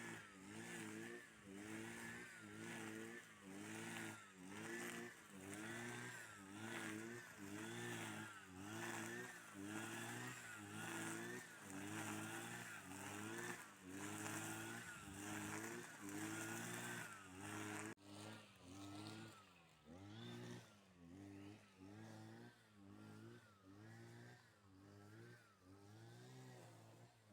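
An engine revving up and down over and over, about once a second, faint. It drops in level partway through.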